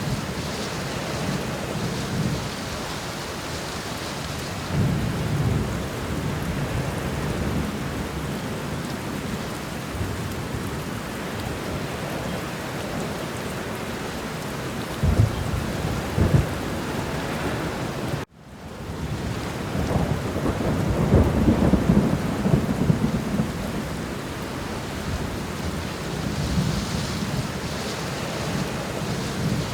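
Steady rain with low rolls of thunder swelling and fading, and two sharp thunder claps about halfway through. About two-thirds of the way in, the sound cuts out for a moment and fades back in.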